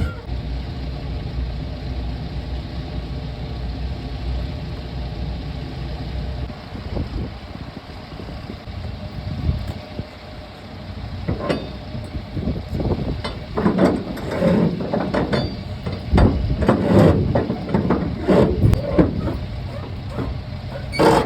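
A diesel truck engine idling with a steady low hum. From about halfway through, louder irregular sounds join it.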